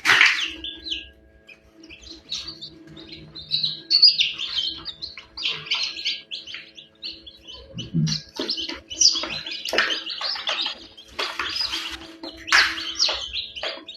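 Chicks peeping, many short high chirps in quick succession, over a faint steady hum.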